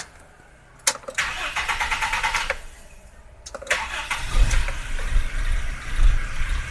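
Toyota Kijang LGX engine being started. The starter cranks for about a second and a half and stops. About three and a half seconds in it cranks again, and the engine catches and runs with a low rumble.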